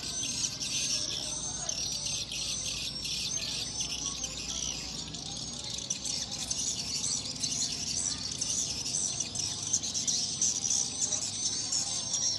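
Swiftlets twittering: a dense, continuous mass of rapid high-pitched chirps.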